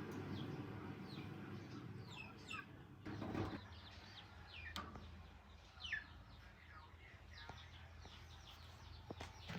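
Faint chirping of small birds, many quick falling chirps, over a steady low hum. A low rumble fades out in the first second, and there are a few soft knocks.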